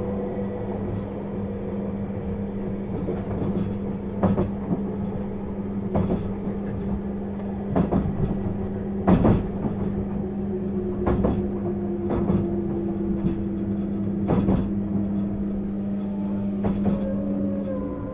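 Interior running sound of a JR 651 series electric train: a steady hum and a slowly falling whine, with a wheel knock over the rail joints every second or two.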